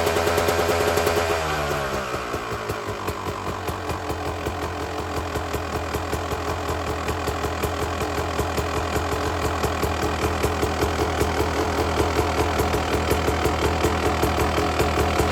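Honda CR250 two-stroke single-cylinder engine running at a high idle that drops about a second and a half in as the choke comes off, settling into a lower, even idle. This is the cold-start high-idle the rider was checking for, and he judges the idle a little lean.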